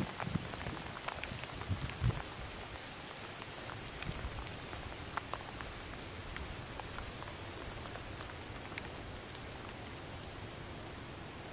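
Steady rain falling on brush and leaves, with scattered single drops ticking close to the microphone. A few low knocks sound in the first two seconds.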